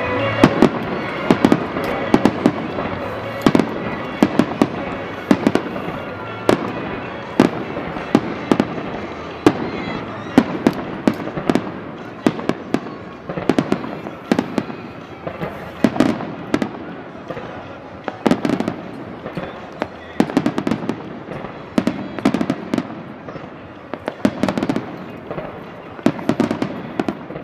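Aerial firework shells bursting in a rapid, continuous barrage: sharp booms about once a second with quicker cracks and pops between them.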